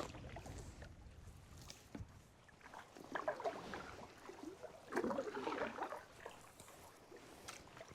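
Faint paddle strokes on calm water: the blade dipping and splashing, with water dripping off it, louder about three and five seconds in.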